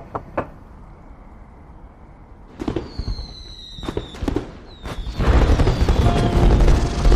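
Aerial fireworks. A few sharp pops with a whistling tone come about two and a half to four seconds in. From about five seconds in, a dense, loud run of bangs and crackling follows as the shells burst.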